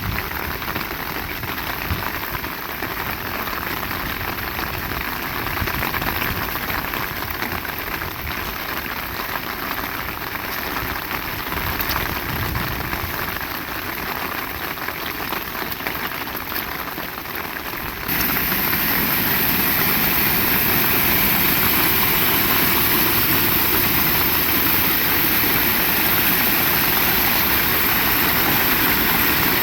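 Heavy rain falling steadily. About eighteen seconds in it suddenly steps up to a louder, hissier downpour that holds steady.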